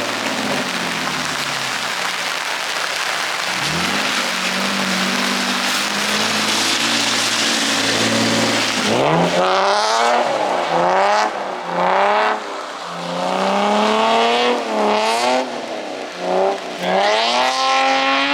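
Car engine pulling through a drift. It runs steadily under a rushing hiss for about half the time, then revs up and down over and over as the driver works the throttle.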